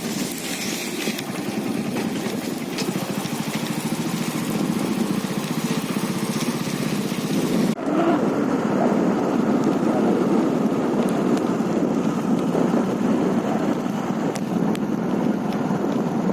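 An engine running steadily, with a short break about eight seconds in.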